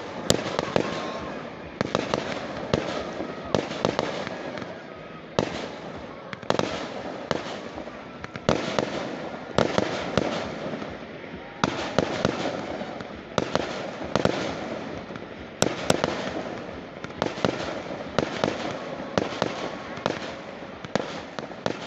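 Firecrackers going off in quick succession: a sharp bang roughly every second, each trailing off before the next.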